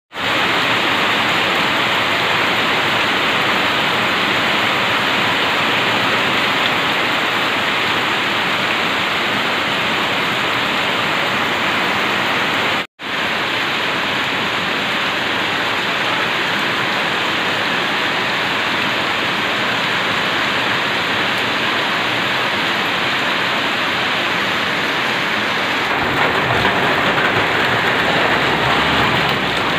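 Heavy rain falling steadily, a dense even hiss. It cuts out for an instant just before halfway, and a deeper rumble joins in near the end.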